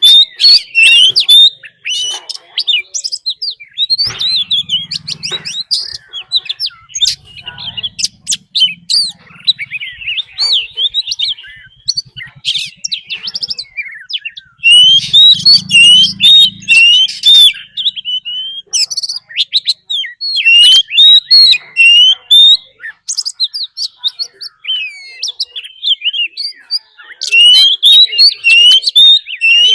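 Oriental magpie-robin singing a loud, unbroken run of quick varied whistles, chirps and sweeping notes: the combative song of a decoy male, used to provoke wild birds into answering.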